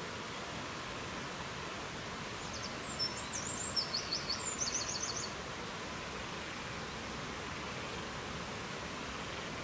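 Steady rushing noise of a forest soundscape, with a songbird singing one phrase of quick high notes about two and a half seconds in, ending in a fast run of repeated notes.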